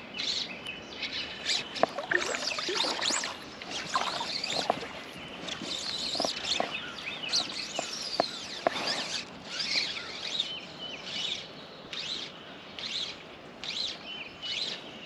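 Songbirds chirping and singing in short repeated high notes, with a few sharp clicks or knocks in the middle stretch.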